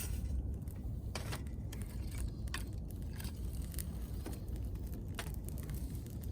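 Wood campfire crackling, with scattered sharp pops about once a second over a steady low rumble.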